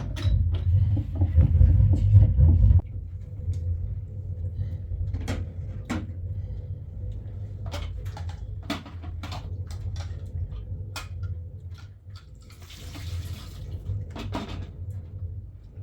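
A low rumble that cuts off suddenly about three seconds in, followed by scattered clinks and knocks, like household work, with a short rush of water past the middle.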